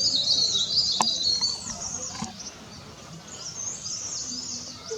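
Songbirds chirping and twittering in quick, high-pitched runs, busiest in the first two seconds and again near the end, with a single sharp click about a second in.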